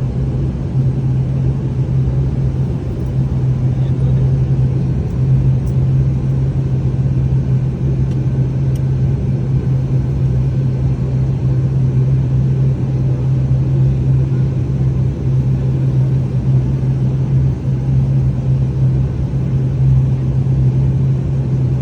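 Inside an airliner cabin at takeoff, the engines give a loud, steady drone: a strong low hum over a constant rumble.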